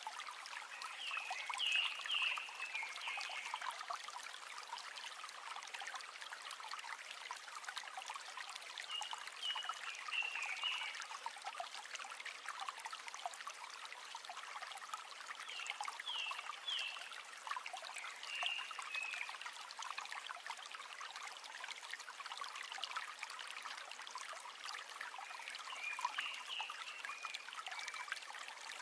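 River water flowing and trickling steadily. Short bursts of high chirping calls come through it about five times.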